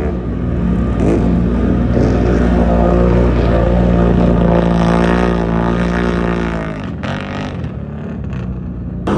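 Engines of off-road race vehicles running hard and revving, the pitch rising and falling. The sound eases somewhat about seven seconds in.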